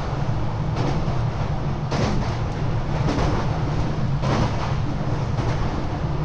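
JR West 227 series electric multiple unit (Toshiba IGBT VVVF motor car) running along the line: a steady low rumble with a rush of wheel-and-rail noise about once a second.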